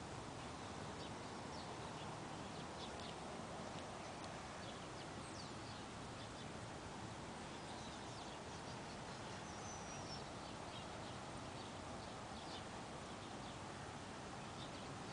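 Steady background hiss with faint, scattered bird chirps, some short and a few sliding in pitch.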